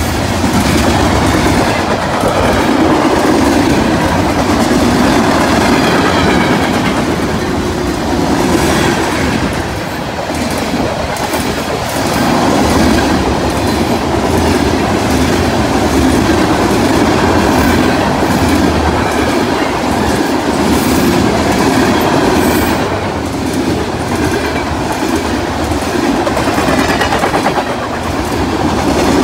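Freight cars of a CSX train rolling past at speed: a loud, continuous rumble of steel wheels on rail with a clickety-clack of wheels over the rail joints, rising and dipping slightly as the cars go by.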